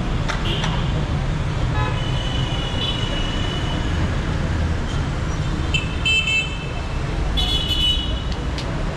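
Dense city traffic running steadily, with vehicle horns honking several times: a long blast a couple of seconds in, then two shorter ones near the end.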